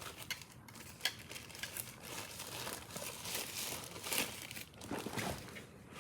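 Crinkling and rustling of wrapping being handled, with many short sharp clicks and crackles scattered through it.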